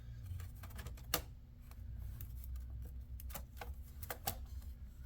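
Laptop bottom cover being fitted and pressed into its clips: a scattering of small clicks and knocks, over a low steady hum.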